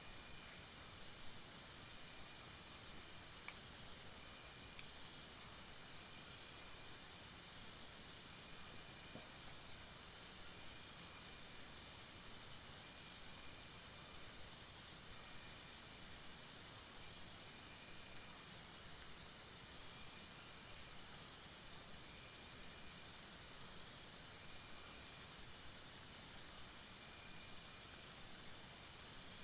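Night chorus of insects in tropical forest: a steady, fast-pulsing high trill runs throughout, with a fainter lower trill coming and going. A very high-pitched burst of chirps repeats every several seconds, and a few brief sharp clicks sound now and then.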